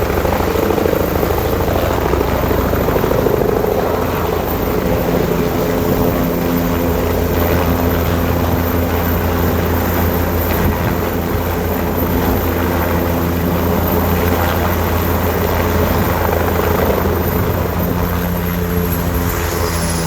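Helicopter landing, its rotor and engine running steadily and loudly. Near the end a high whine falls in pitch.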